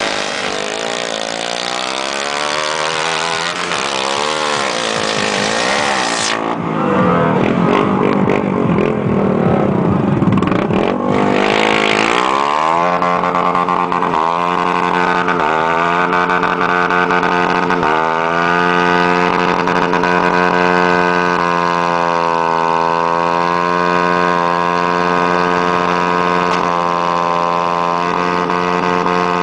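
Car engine revved up and down repeatedly for about the first twelve seconds, then held at high revs with its pitch wavering slightly, the hold broken by a few short dips.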